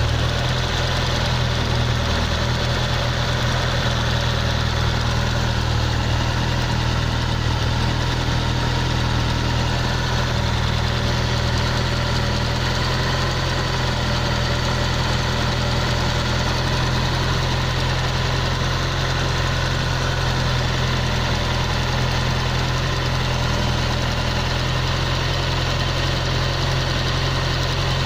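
Car engine idling steadily soon after a cold start, with an abnormal noise from the cylinder at the driver's-side end.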